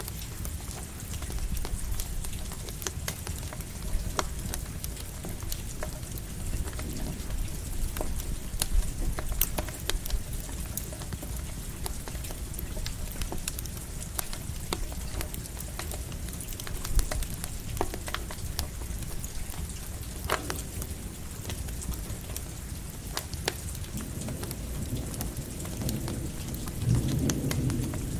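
Steady light rain with a crackling campfire, sharp pops scattered through it. A low rumble of thunder swells near the end.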